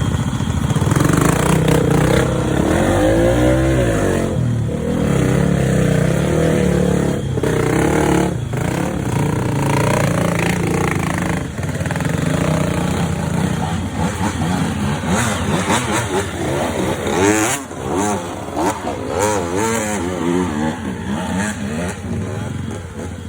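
Off-road motorcycle engine revving, its pitch rising and falling over and over with the throttle, with a few sharp knocks along the way.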